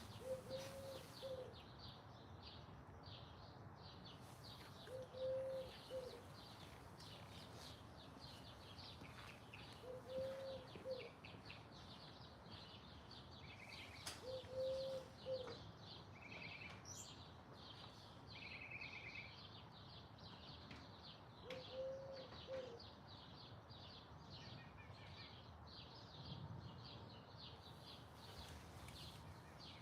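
Garden birds chirping and twittering steadily, with a low one-second call repeated five times, about every four to five seconds, and a few short higher chirps in the middle.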